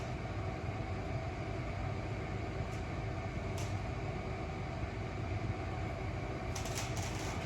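Steady low hum with an even hiss of background noise, broken by a few faint clicks, once around the middle and a few near the end.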